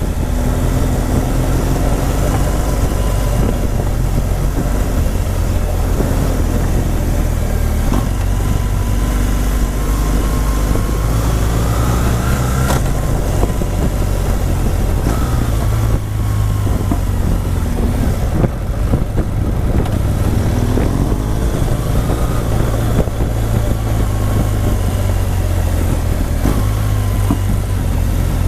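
Motorcycle engine running steadily while riding, with wind rushing over the microphone; the engine note shifts slightly in pitch a few times as the speed changes.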